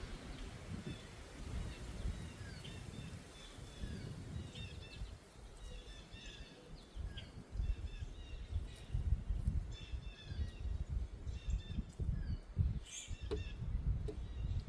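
Wind gusting against the microphone as a low rumble that grows stronger about halfway through, while small birds chirp repeatedly in short high calls.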